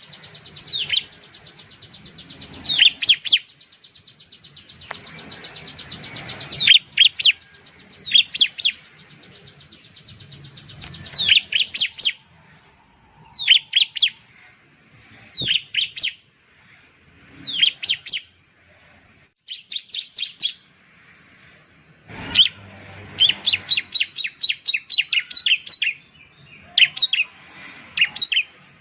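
Bar-winged prinia (ciblek) singing: loud, sharp falling notes in groups of two or three, mixed with long runs of fast, even ticking notes over the first half and again about two-thirds of the way through.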